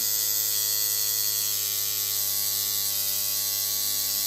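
Tattoo machine running with a steady, even-pitched electric buzz.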